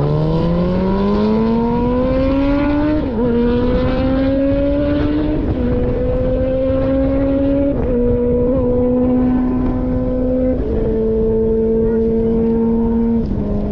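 Motorcycle engine accelerating hard through the gears on a land speed run. The pitch climbs and drops at each of five upshifts, and the climb after each shift is slower than the one before, over a steady rush of wind.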